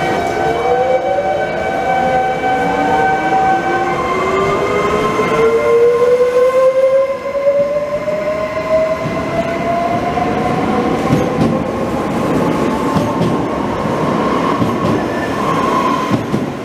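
Electric regional train pulling out of a station and gathering speed past the platform: a whine that climbs steadily in pitch as it accelerates, over the rumble of its wheels on the rails.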